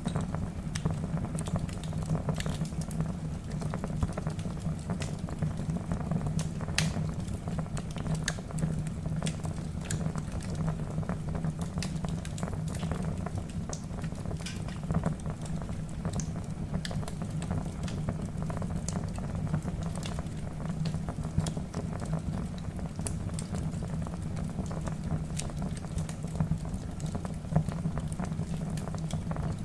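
Wood logs burning in a fireplace: a steady low rumble of flame with frequent sharp crackles and pops.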